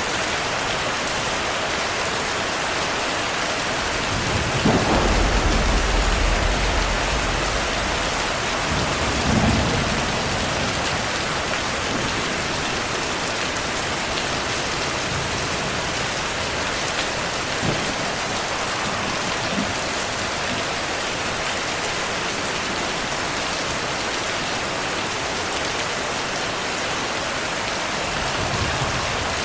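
Steady heavy rainfall with thunder: a deep rumble rolls in about five seconds in and dies away over a few seconds, a second, shorter crack follows a few seconds later, and a faint low rumble returns near the end.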